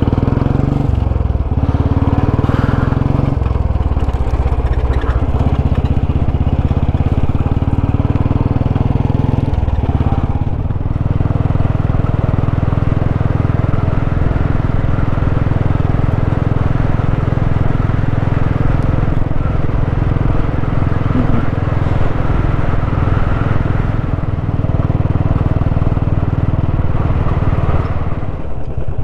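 Motorcycle engine running steadily while the bike is ridden along a dirt road. Its note shifts in steps a few times in the first ten seconds, then holds.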